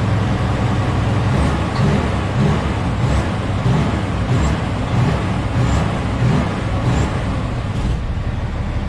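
Heavy diesel coal-truck engine running. About a second and a half in, the steady idle turns into uneven swells, roughly three every two seconds, with faint light ticks over the top.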